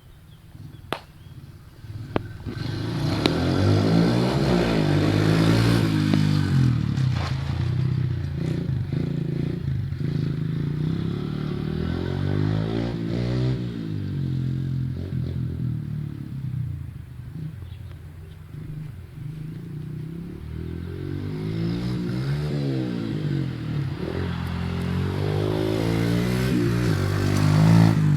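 Pit bike engine being ridden, revving up and easing off again and again so its pitch climbs and falls, loudest just after it comes in about two and a half seconds in and again near the end. Two sharp clicks come in the first two seconds, before the engine swells.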